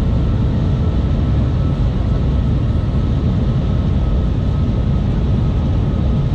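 Shanghai Maglev train cabin noise at high speed: a steady low rumble and rush of air, with a faint steady whine above it.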